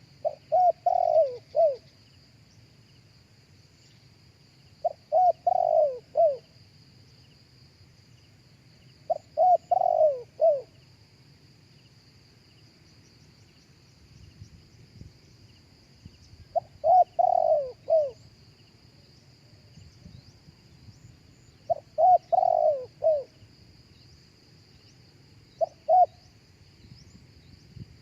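Spotted dove cooing: short phrases of several quick falling coos, each phrase repeated about every four to six seconds, the last one cut short.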